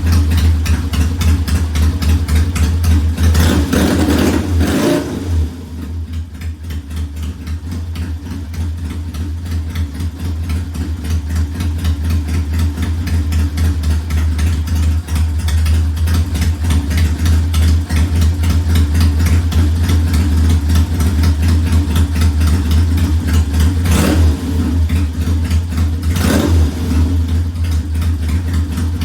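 1969 Triumph T100's 500 cc parallel-twin engine idling, with a pair of quick throttle blips about four seconds in and another pair near the end. After the first pair the idle drops and slowly builds back up.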